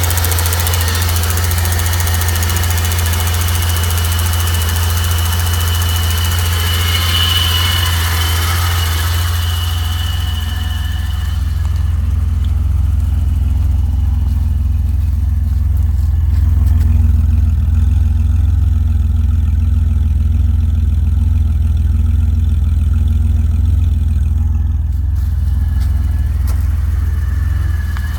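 BMW M30B35 3.5-litre straight-six idling steadily on a cold start, with a hiss and a faint whistle over it that fade out about ten seconds in. The owner suspects this noise is a vacuum leak, from the valve cover gasket or the intake manifold gaskets.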